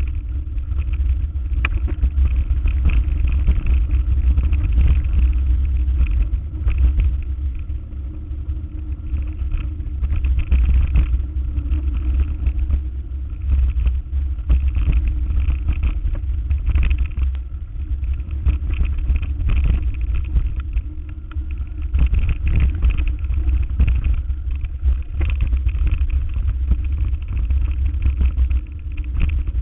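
A vehicle driving: a steady low rumble of engine and road noise, broken by frequent short knocks and rattles.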